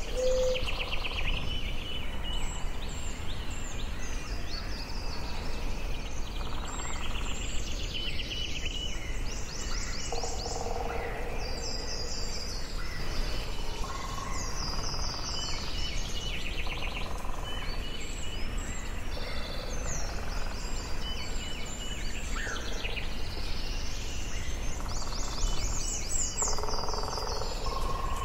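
Forest ambience: several songbirds singing and calling at once, with quick high trills and chirps and some lower repeated calls, over a steady low background rumble.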